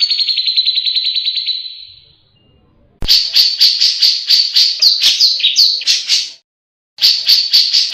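Grey-cheeked bulbul (cucak jenggot) calling: a fast high trill that fades out over about two seconds, then, after a short pause, a run of rapid chattering notes, about five a second, that breaks off briefly near the end and resumes.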